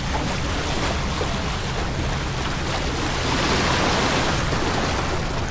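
Water rushing along a racing sailboat's hull, with wind on the microphone. The wash swells louder about three and a half seconds in.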